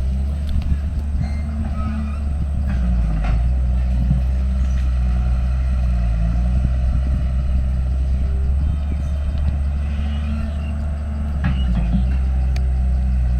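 Diesel engine of heavy earthmoving machinery running under changing load, its pitch stepping up and down a few times, with a few short knocks.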